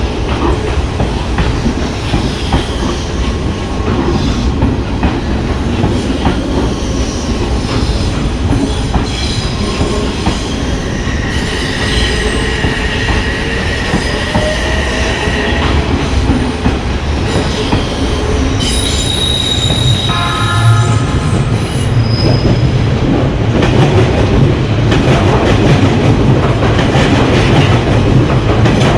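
Odakyu Line train running past close by, with a steady rumble and wheels clattering over the rails. A drawn-out wheel squeal runs from about twelve to sixteen seconds in.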